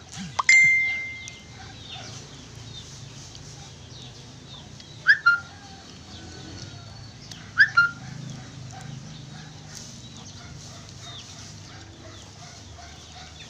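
Birds calling: a loud sharp call about half a second in that holds one high pitch for about a second, then two quick double calls, around five seconds and around eight seconds, over many faint chirps.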